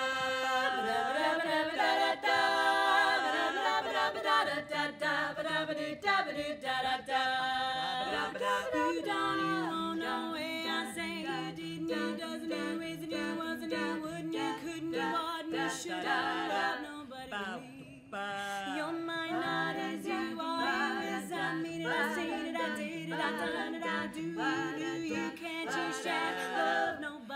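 Female barbershop quartet singing a cappella in close four-part harmony, long chords held over a moving bass line, with a brief break about two-thirds of the way through.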